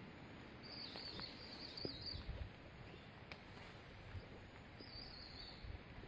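A small songbird gives a high, wavering twitter about half a second in, lasting over a second, and again briefly near the end. Underneath is a faint, steady hiss of forest background with low rumbles.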